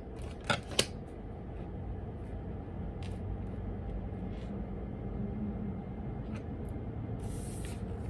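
Steady low background rumble, with two light clicks in the first second and a short rustle near the end.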